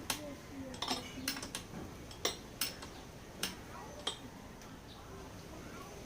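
Metal tools and small engine parts clinking and tapping against each other at irregular intervals during motorcycle engine disassembly, about eight sharp clinks in the first four seconds, then quieter.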